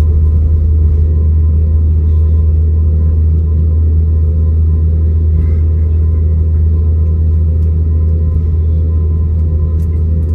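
Steady low drone inside an airliner's cabin from its jet engines and air system, unchanging in pitch and level.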